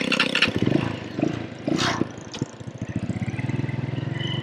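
A 20-year-old motorbike engine running unevenly for the first couple of seconds, then settling into a steady idle with a fast, even beat. It is running on the bike the owner says struggles to start and cuts out.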